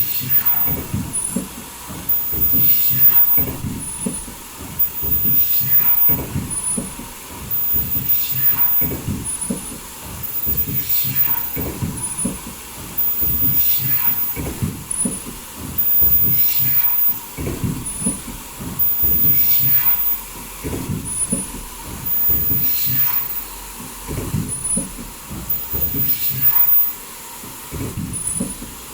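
Automatic foldable mask production line running, with machine clatter and a cycle that repeats about every two seconds. Each cycle carries a short, very high-pitched whine from the welding station.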